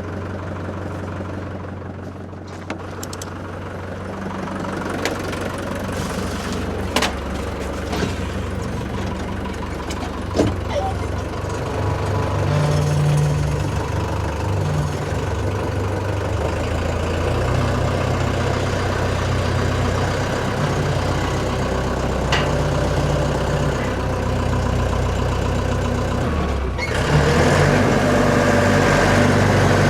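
Tractor engine running steadily, its pitch shifting now and then, with a few sharp knocks and clatter; it gets louder near the end.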